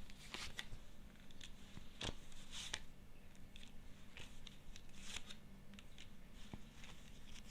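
Tarot cards being handled: faint, scattered rustles and soft clicks of card stock.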